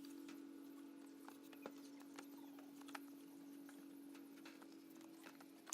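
Near silence: a steady low hum with a few faint scattered clicks.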